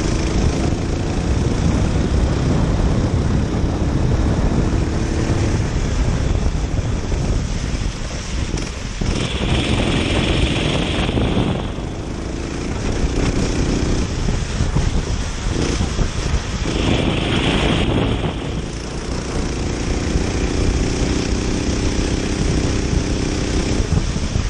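Kart engine running at race speed, its note coming and going as the driver accelerates and lifts off through the corners, with wind rushing over the microphone. Twice a brief higher hiss cuts in.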